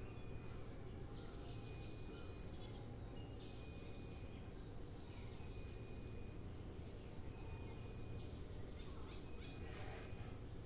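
Wild birds calling: short high chirping phrases that recur every second or two, over a steady low background rumble.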